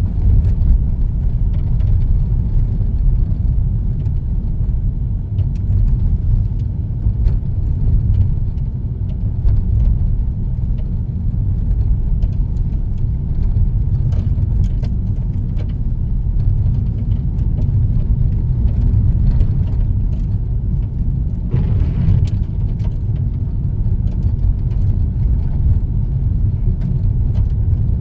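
Car driving along a country road: a steady low rumble of tyres and engine, with a brief louder swell of noise about twenty-two seconds in.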